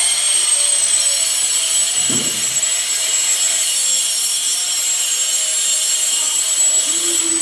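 Woodworking power tool running steadily with a high whine over a hiss, with a short low knock about two seconds in.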